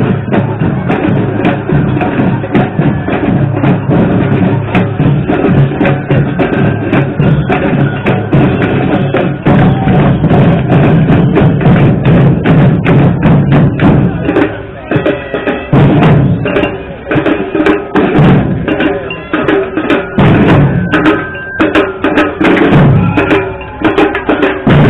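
Drum-led percussion music with a busy rhythm of sharp hits, playing loudly with a few brief breaks after the middle.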